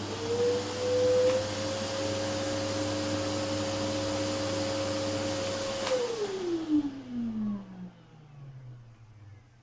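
Canister vacuum cleaner motor running at full speed: its whine rises in pitch for the first second or so, holds steady, then the cleaner is switched off about six seconds in and the motor winds down, its pitch falling over the next few seconds.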